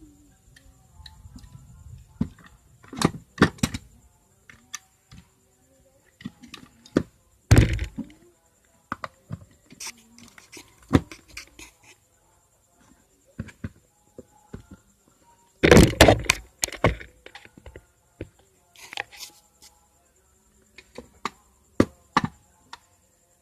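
An electric clothes iron being handled and adjusted during repair: scattered clicks and knocks, with a few louder thunks.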